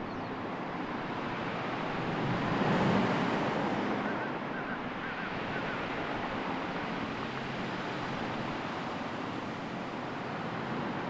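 Sea waves washing on the shore, a steady rush with one wave swelling up and breaking about three seconds in. A few faint short chirps come through about halfway.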